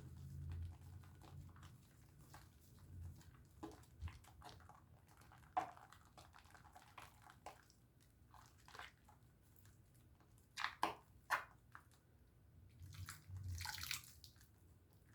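Soft wet squishes and clicks of a bar of Dove soap being lathered with water, with a few louder squelches about eleven seconds in and a short hiss of foam near the end.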